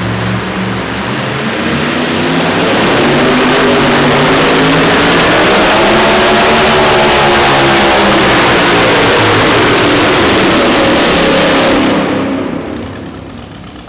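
Super modified two-wheel-drive pulling truck's engine at full throttle during a pull. It gets louder over the first few seconds, its pitch climbs and then drops, and about twelve seconds in the sound falls away quickly.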